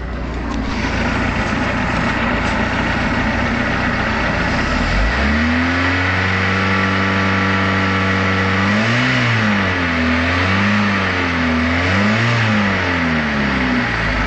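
Bayliner Capri's 3.0-litre boat engine running, freshly de-winterised. It rumbles roughly at first, then about five seconds in it picks up to a steady, higher note. It is then revved up and back down three times, falling back to a lower speed near the end.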